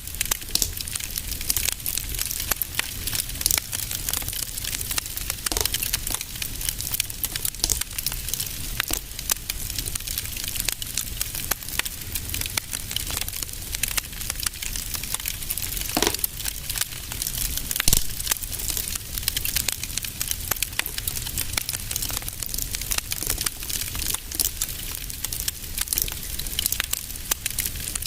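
Wood fire crackling in a fireplace: a dense, irregular run of small pops and snaps over a low steady rumble, with a few louder pops, the loudest about eighteen seconds in.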